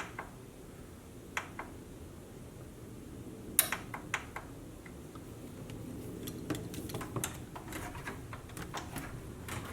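Scattered clicks and taps from audio cables, plugs and an amplifier being handled and connected, the loudest about three and a half seconds in, over a low steady background noise that grows a little louder in the second half.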